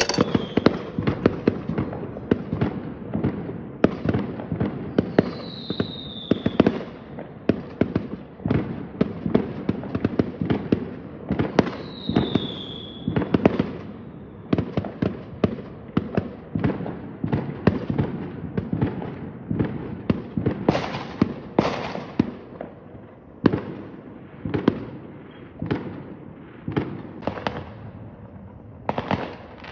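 Fireworks going off in a dense, irregular run of bangs and crackling, with two high whistles that fall in pitch, about five and twelve seconds in.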